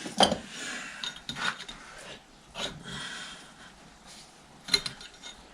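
Metal parts being handled and worked into place by hand: irregular scraping and rubbing, with a sharp knock just after the start and a click near the end.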